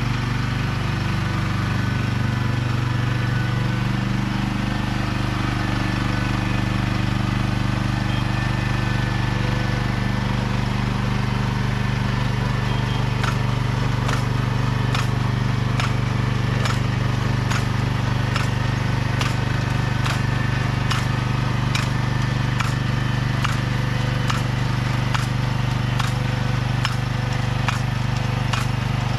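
Small engine of a vegetable transplanter running steadily while it plants corn seedlings. From about halfway through, a regular mechanical click comes in, a little more than once a second.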